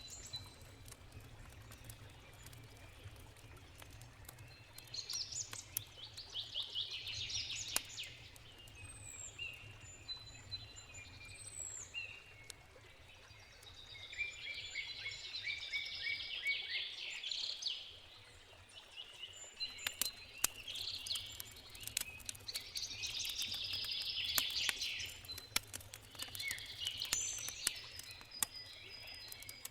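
Songbirds singing in several bouts of fast trills and chirps, over a steady low rush, with sharp pops and crackles of a wood campfire scattered through, thickest a little past the middle.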